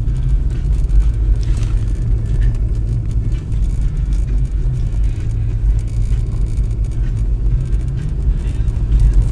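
Car driving, heard from inside the cabin: a steady low rumble of engine and tyre noise on a snow-covered road.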